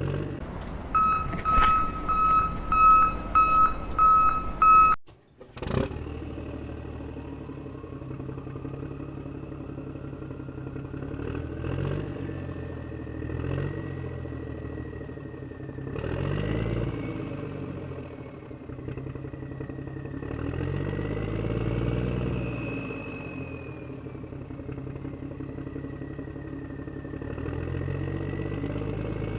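Vehicle engine running, its pitch rising and falling several times with a whine above it. For the first few seconds a pulsing beep tone sounds over the engine, then it breaks off.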